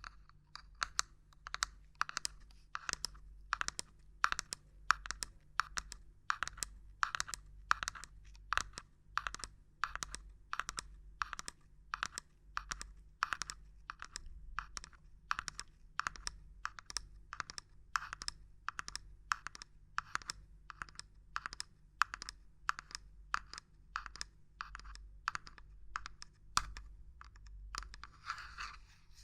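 Fingers or a small tool tapping and knocking on a hard object: a steady series of sharp, dry taps, about two a second, with a softer rustle near the end.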